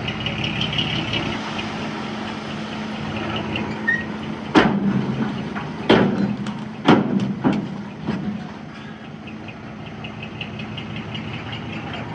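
Diesel engine of heavy earthmoving machinery running steadily, with a run of five or six sharp knocks about halfway through.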